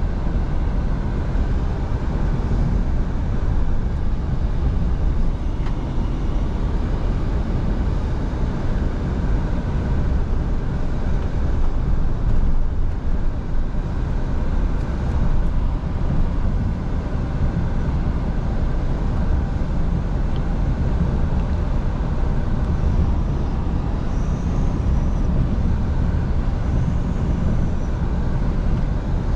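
Scania V8 truck under way at a steady pace: the engine runs with a steady low drone, mixed with tyre and road noise.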